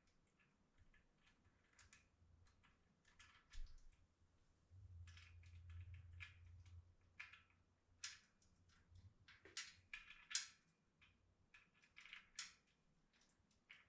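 Faint, irregular clicks and light metal clinks of nuts, bolts and washers being handled and fitted while a bench vise is bolted down to a steel welding table. A low hum comes in for a couple of seconds about five seconds in.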